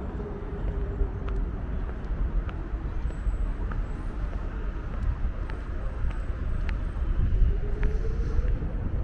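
City traffic ambience: a steady low rumble of road vehicles, with a faint engine tone that drops away and then climbs again near the end, and a scattering of small ticks.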